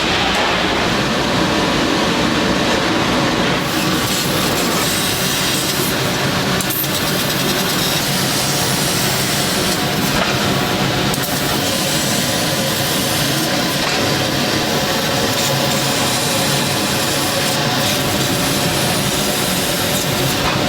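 Steady, dense mechanical noise of factory work, like running machinery and power tools, without pauses.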